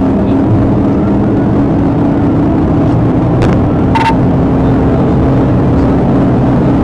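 Police patrol car's engine and road noise at a steady drone, heard from inside the car during a pursuit. Two short clicks come a little past halfway, the second with a brief beep.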